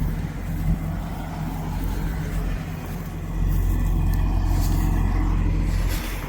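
Motor vehicle engine running with a steady low rumble and hum, louder from about three and a half seconds in.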